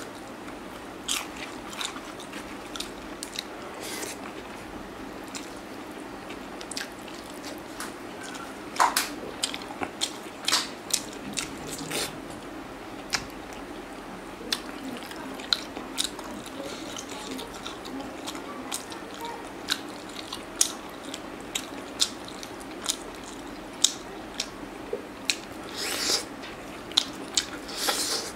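Close-up eating sounds: chewing, biting and tearing at chicken on the bone with rice, with many short wet mouth clicks and smacks coming irregularly and more often near the end.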